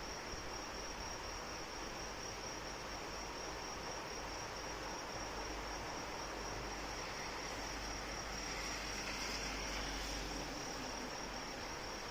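Steady rain falling with a continuous high-pitched insect trill, cricket-like, over it; the rain swells a little louder for a couple of seconds about eight seconds in.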